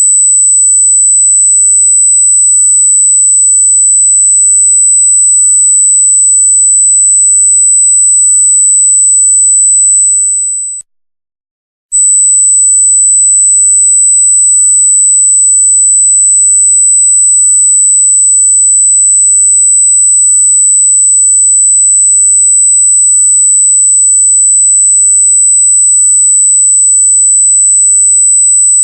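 A single very loud, very high-pitched steady electronic tone, one pure pitch with nothing else. About ten seconds in it fades out, stops for about a second, then comes back at full level.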